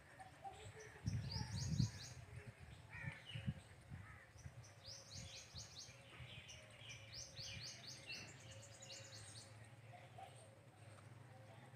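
Small birds chirping faintly in several short bursts of rapid, high, repeated notes, with a brief low rumble about a second in.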